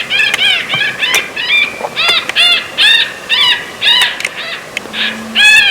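Predator call playing a prey distress sound: high, arching squeals repeated about twice a second, used to lure in coyotes and foxes.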